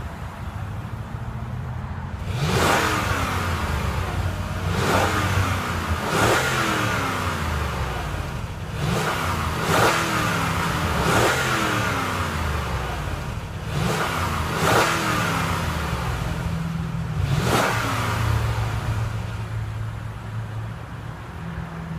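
A car engine swelling and falling away about eight times, each surge peaking sharply and then dropping in pitch, over a steady low running sound.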